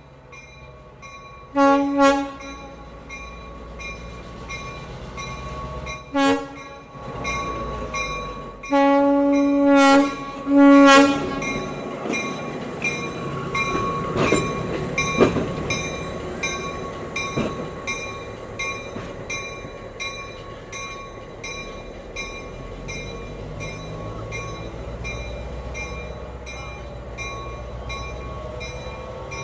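Train horn sounding four blasts, the last two longer and louder, followed by the steady rolling noise of the train on the track with a few sharp clacks.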